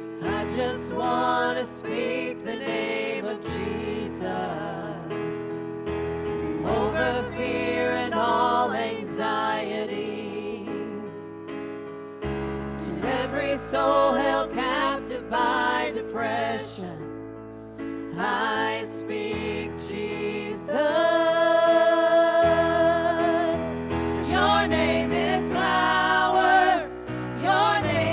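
Contemporary church worship music: a band with keyboard and bass holding long chords, and a wavering sung melody over them.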